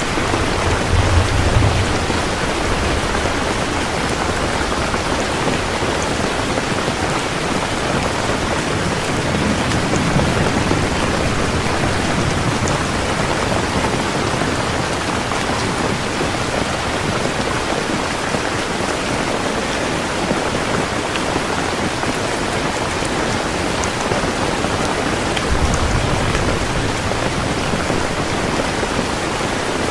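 Heavy rain falling in a steady dense hiss, with low rumbles of thunder three times: about a second in, around ten seconds, and late on.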